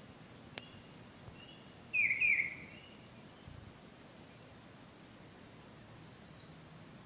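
A bird singing: a pair of quick downward-slurred notes about two seconds in, and a single high whistled note near the end.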